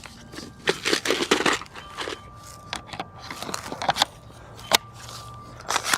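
Dry crunching and rustling with scattered clicks and one sharp knock near the end.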